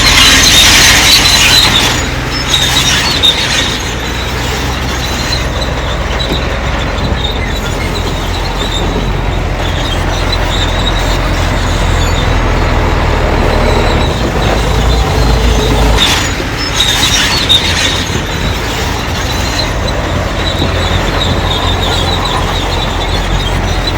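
Bulldozer at work: its diesel engine runs steadily under load while the steel crawler tracks squeal, loudest at the start and again about two-thirds of the way through.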